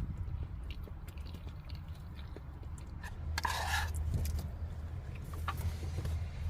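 Wind rumbling on the microphone, with scattered small clicks and a brief scraping rustle about three and a half seconds in.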